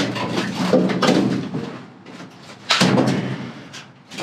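Knocks and rustling as soda cans are fished one by one out of a frozen box in a dumpster, with a sharper bang about three seconds in.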